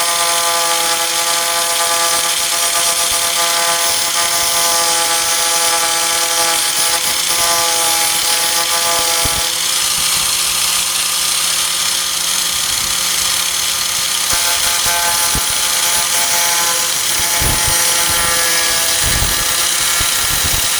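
Warrior 4-1/2 in. electric angle grinder running steadily against the tailgate's sheet steel with a continuous whine. Its pitch shifts slightly through the middle as the load changes, and a few knocks come near the end.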